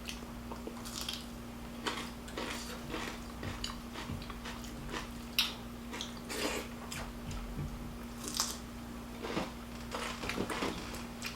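Close-miked chewing and mouth sounds of people eating a rice, dal and chicken meal: irregular wet smacks and short crunches over a steady low hum.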